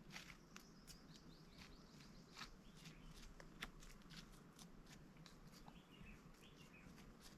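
Faint, irregular light clicks and rustles, with a few faint bird chirps in the background.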